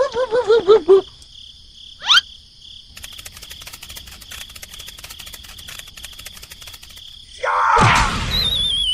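A string of cartoon sound effects. A short warbling, voice-like sound is followed by a quick rising whistle. Then comes an insect-like chirring with fast ticking for about four seconds. Near the end a loud whoosh leads into a falling, wavering whistle.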